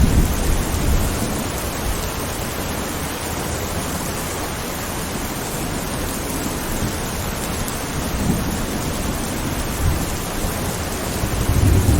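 Steady heavy rain hissing, with low rolls of thunder rumbling at the start and building again near the end.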